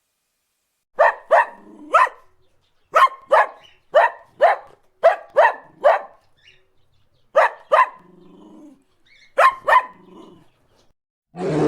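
A dog barking: about fourteen short, sharp barks in quick pairs and triples with brief pauses between the groups.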